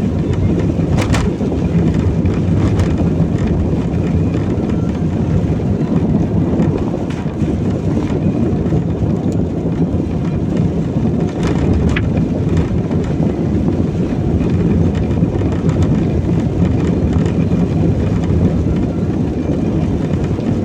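Steady low rumble of road and tyre noise heard inside a car's cabin while driving on a wet road in rain, with a few faint brief clicks.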